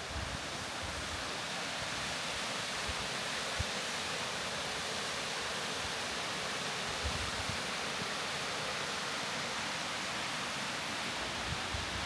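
Mountain waterfall: water rushing down in a steady, even hiss.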